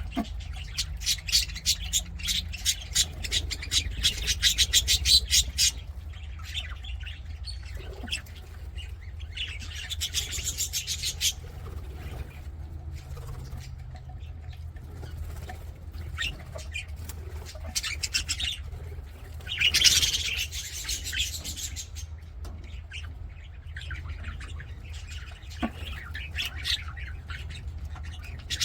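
Budgerigars chirping and chattering in quick trains of high chirps, busiest in the first few seconds, with louder bursts about ten and twenty seconds in, over a steady low hum.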